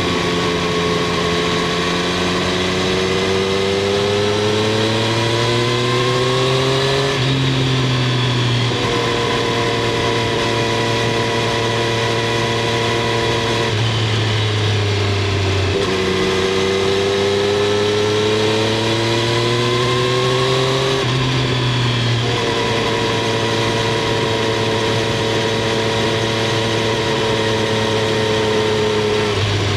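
Triumph Street Triple 765 R's inline three-cylinder engine and exhaust under way. The engine note climbs steadily twice, for about seven seconds each, and each climb is followed by a drop at a shift and a stretch of steady cruising.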